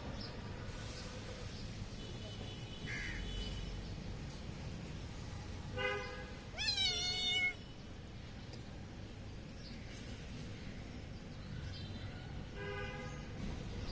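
Domestic cats meowing several times while being fed, begging for food. The loudest and longest meow comes about seven seconds in, with shorter, fainter ones before it and another near the end.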